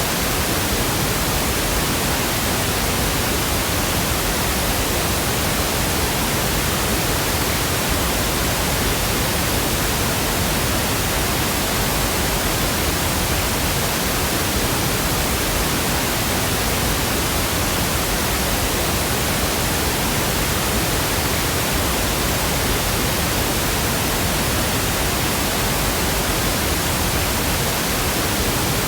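Steady synthetic noise: an even, unchanging hiss spread across low and high pitches alike.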